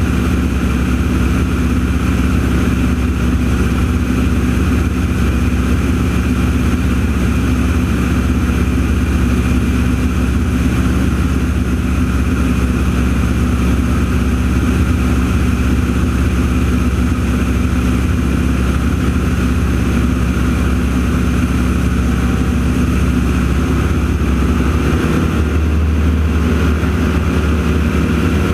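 The radial piston engines of AeroShell Aerobatic Team T-6 Texans run as a loud, steady propeller drone. The engine note shifts near the end.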